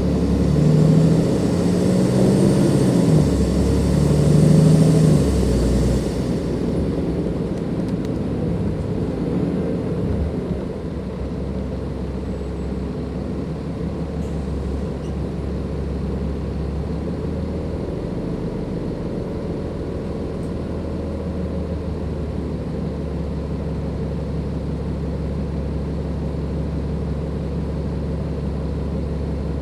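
Dennis Enviro 500 double-decker bus's Cummins ISLe diesel engine pulling under load with loud turbo noise for about the first six seconds. The high turbo sound then cuts off sharply, and the engine drops to a steady low drone.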